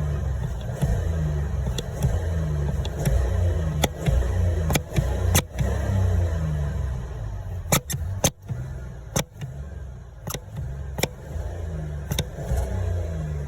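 Car engine revved again and again, each rev a short rising sweep in pitch, with several sharp cracks over it, a cluster of them in the middle.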